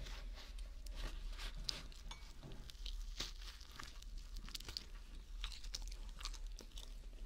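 Close-up chewing of a mac and cheese sandwich on a binaural microphone: wet mouth sounds with many short, irregular clicks.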